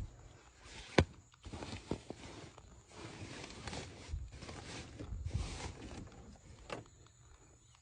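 Irregular knocks and clicks with rustling as food and items are handled and packed, with a sharp knock about a second in.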